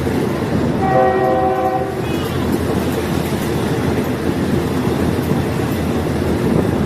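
Diesel multiple-unit railcar running with a steady, loud noise; about a second in its horn sounds once for about a second, several notes at once.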